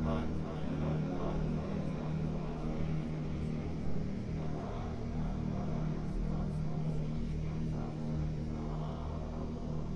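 Electronic music: a steady low drone with a rumbling, noisy texture.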